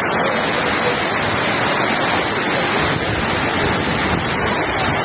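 Rain pouring down, a loud steady hiss without a break.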